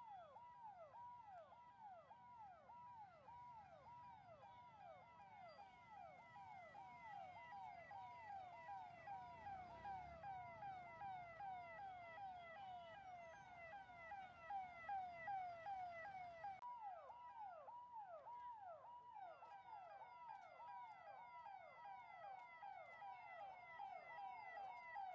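Police vehicle's electronic siren sounding a fast repeating falling wail, about two sweeps a second.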